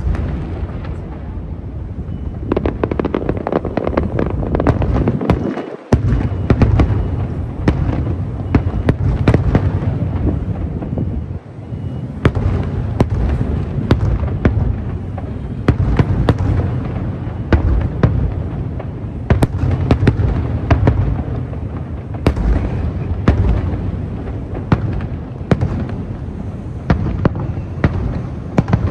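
Fireworks display: a continuous barrage of deep booms from aerial shells bursting, with many sharp cracks and crackles, briefly dipping twice before resuming.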